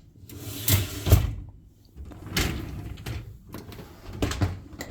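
Empty dishwasher racks rolling back along their rails in several pushes, with a loud knock near the end as the dishwasher door is shut.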